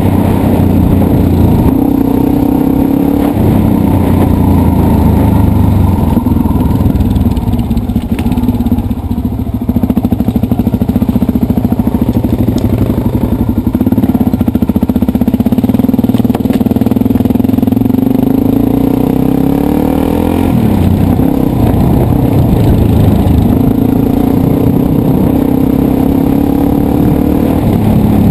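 Dirt bike engine running hard, its revs rising and falling again and again as the rider works the throttle and gears. The engine eases off briefly about eight to ten seconds in, then pulls again.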